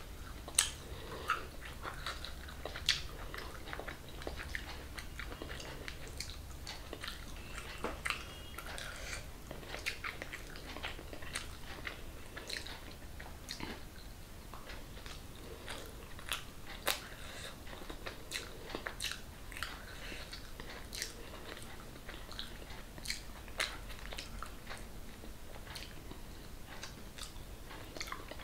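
A person biting into and chewing food by hand, mouth close to the microphone: irregular sharp chewing clicks throughout, a few louder bites in the first three seconds.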